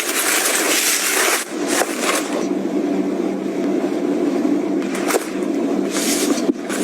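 Hands handling packaging and items: uneven bursts of rustling and scraping, with a sharp click about five seconds in.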